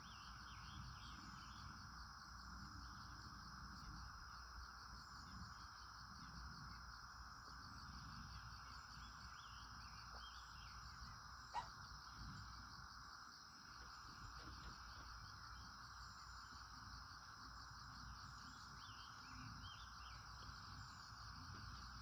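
Faint rural ambience: steady insect trilling, with scattered faint bird chirps and one brief click about halfway through.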